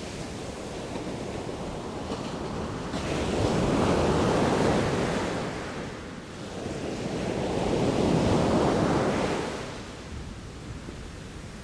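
Sea waves washing in: two breakers surge and fall away about three seconds apart, over a steady rush of surf and wind.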